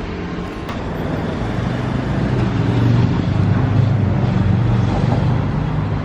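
Street traffic: a motor vehicle's engine hum over road noise, growing louder from about a second in and staying strong through the rest.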